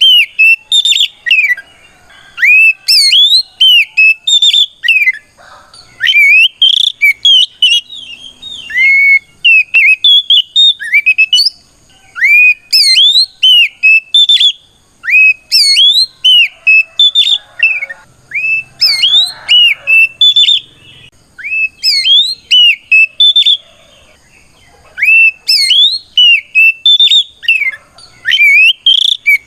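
Oriental magpie-robin (kacer) singing loudly in its 'ngeplong' challenge song, calling out to a rival: runs of quick, clear whistled notes sweeping up and down, broken by short pauses.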